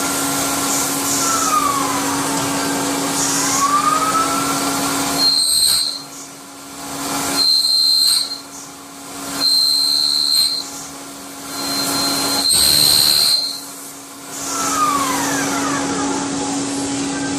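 CNC milling machine running: a steady hum whose higher tones glide down and back up, then four louder bursts of hissing noise with a high whine, separated by short quieter gaps.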